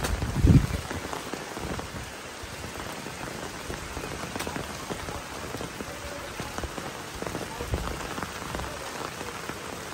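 Steady rain falling on the surface of a small pond and the muddy bank around it. About half a second in, a wet clump of duckweed lands in the water with a short, loud splash.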